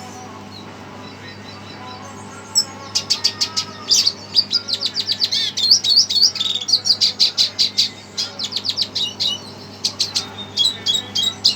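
Small finch song: quiet for the first two and a half seconds, then a rapid, dense twittering of high chirps and trills, with a short lull near the end before it picks up again. A low steady hum runs underneath.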